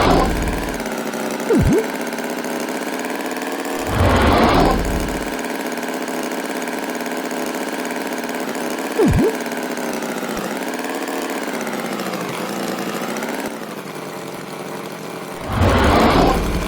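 An engine idling steadily, swelling into louder surges three times. Two very short chirps are also heard.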